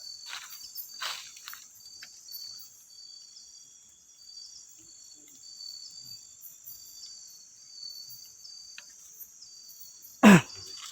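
Night insects: crickets chirping in a steady, regular pulse over a constant high-pitched insect drone. Near the end comes one brief loud sound, falling in pitch.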